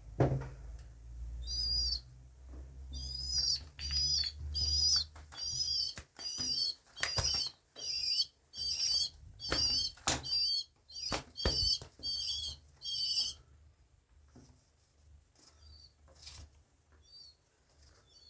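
A young pigeon begging for food: a run of high, wavering squeaky peeps, about two a second, mixed with short bursts of wing flapping. The peeps stop at about 13 seconds, and only a few faint calls follow.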